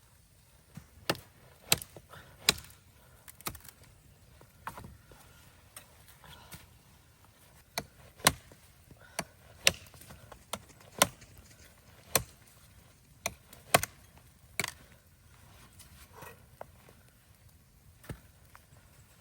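A series of sharp knocks or chops, irregularly spaced at about one a second, some much louder than others.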